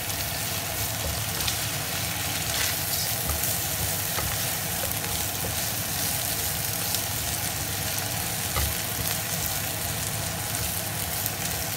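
Giant shrimps and minced garlic frying in a wok: a steady sizzle, with the soft scrapes and taps of a silicone spatula stirring and turning them.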